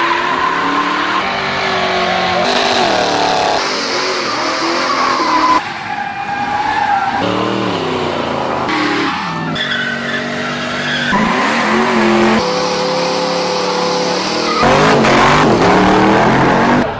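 A run of short clips of hot rods doing burnouts: engines revving up and down with tyres squealing, each clip cut off suddenly by the next.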